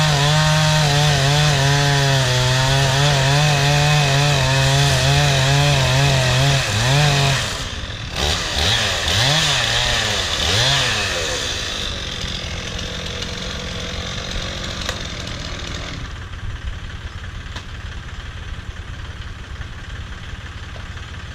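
Gas chainsaw cutting through a log under load, its pitch wavering as it bites. About seven seconds in it comes out of the cut and is revved up and down a few times, then idles. About sixteen seconds in it drops away, leaving a quieter steady engine noise.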